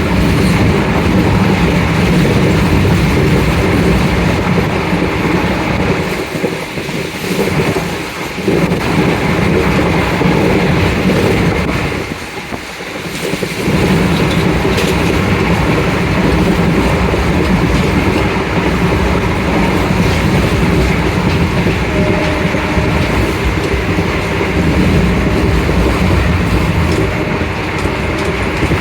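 Express passenger train running at speed: continuous rumble of the coaches with the wheels clattering over the rail joints. The noise dips briefly twice, about a third of the way in and near the middle.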